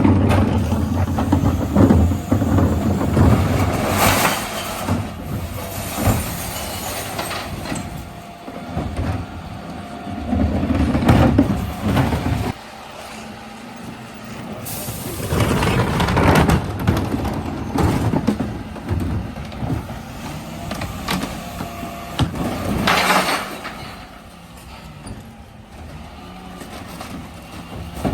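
Dennis Elite 6 refuse truck running, with a heavy engine rumble that drops away suddenly about twelve seconds in. Clattering bursts come and go, and two sharp hisses of air sound about fifteen and twenty-three seconds in.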